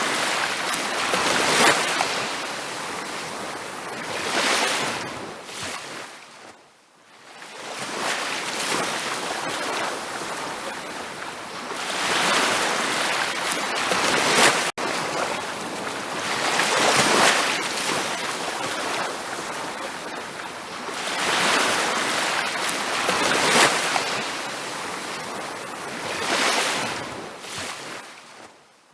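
Ocean waves breaking on a beach, the surf swelling and washing back in repeated surges every few seconds. The sound fades almost to quiet about seven seconds in before the waves return, and cuts out for a split second about halfway through.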